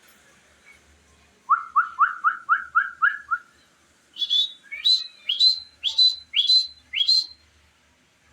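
A pet parrot whistling two quick runs of short, upward-sweeping notes: first about eight lower notes, then six higher, louder ones.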